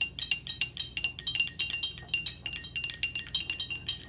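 Pencils tapping three glass jars filled with water to different levels, a quick, uneven run of about five clinks a second. Each strike rings a clear glassy note, the jars giving higher, middle and lower pitches like a xylophone.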